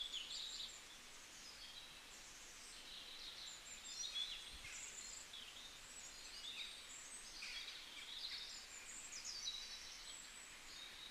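Faint birdsong: several small birds chirping and twittering in quick, high notes, many of them sliding downward.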